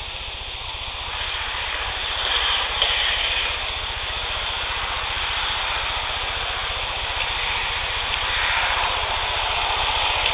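Playback of an outdoor field-recorder clip, heavily boosted: a steady hiss with a constant low hum underneath. No clear voice or distinct event stands out.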